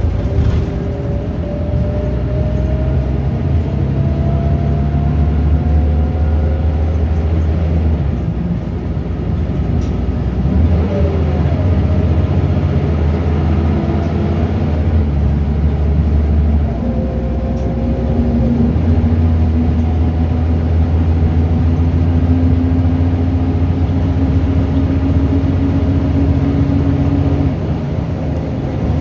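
Scania DC9 9.0-litre five-cylinder diesel in a Scania L94UB bus pulling through its ZF Ecomat 5-speed automatic, gears held long. The revs climb slowly three times, with upshifts about 9 and 17 seconds in and the revs falling away near the end, and a faint high whine rises alongside each climb.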